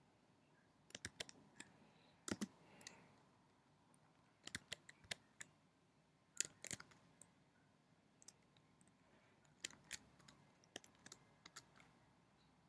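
Sparse computer keyboard key presses and clicks, coming in short clusters of a few keystrokes with quiet gaps between them.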